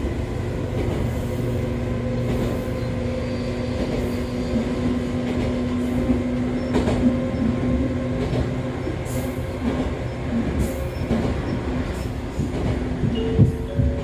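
Interior running sound of an Echizen Railway MC6101 railcar driven by MT54 DC series-wound traction motors: a steady drone of gear and motor hum with a constant whine over the rumble of the wheels, and a few sharp knocks from the track. This car is marked out by its owner as one that makes an abnormal noise. Near the end, a short series of rising tones starts.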